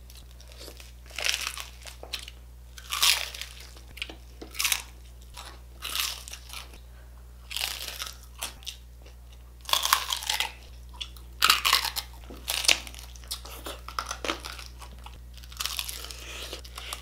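Crunching bites and chewing of crispy pata, deep-fried pork knuckle with crackling skin, in irregular crunches every half second to a second, over a steady low hum.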